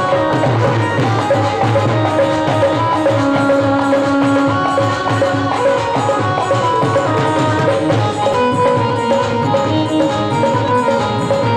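Indian devotional jagran instrumental music: a sustained melody line over fast, steady dholak-and-tabla style hand-drum percussion with jingles.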